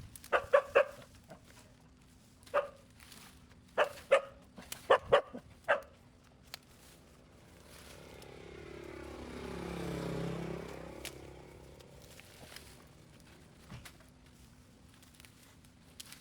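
A dog barking in a quick series of short barks, some in pairs, through the first six seconds. Then a passing vehicle's sound swells and fades, peaking about ten seconds in.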